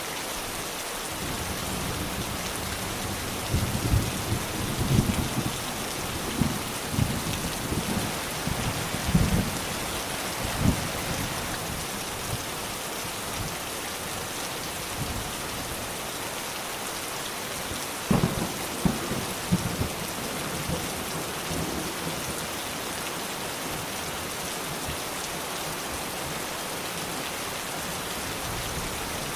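Steady rain falling, with rolling thunder rumbling low twice: a long roll from about three seconds in to about eleven, then a shorter one about two-thirds of the way through.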